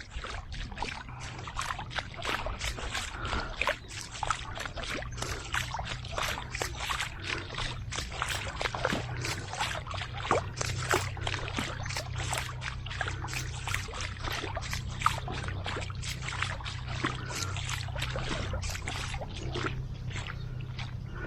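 Footsteps splashing and sloshing through shallow floodwater on a road, a continuous irregular run of wet splashes, over a steady low rumble.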